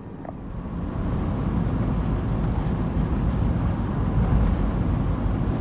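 Ford Transit van heard from inside the cab while driving: a steady low road-and-engine rumble that grows louder about a second in and then holds.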